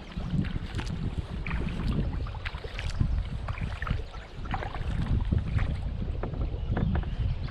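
Kayak paddling: water splashing and dripping off the paddle in irregular small splashes and ticks, over a steady rumble of wind on the microphone.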